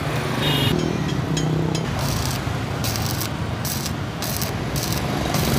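Stick-welding arc from a Pro Tech 250 welder crackling and sizzling as a rod lays a horizontal bead. The crackle swells in regular bursts about every half second to second, over a steady low hum.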